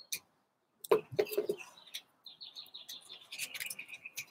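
A small songbird singing a fast run of repeated high chirps over the last two seconds, the notes stepping down in pitch near the end. About a second in, a few soft knocks and rustles of a hardcover book being handled.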